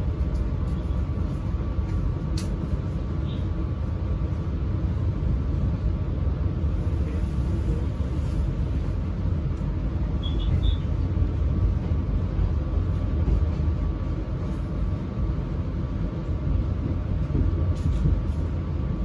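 Menoreh economy-class passenger train running: a steady low rumble of the coach rolling along the track, heard from inside the carriage.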